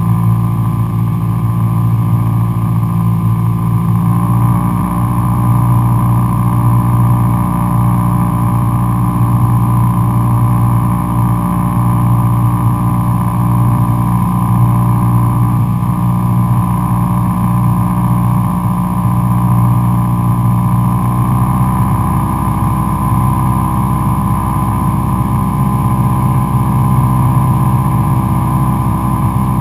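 Cessna 172SP Skyhawk's four-cylinder Lycoming engine and propeller droning steadily in flight, its pitch shifting slightly about four seconds in and again a little past twenty seconds.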